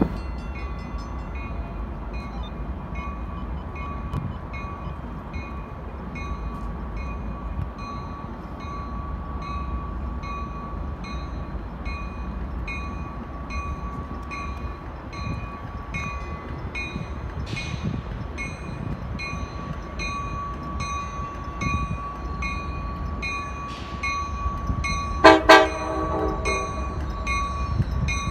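Train running with a steady rumble while a bell rings about twice a second; near the end the train horn sounds two short blasts, the loudest sound.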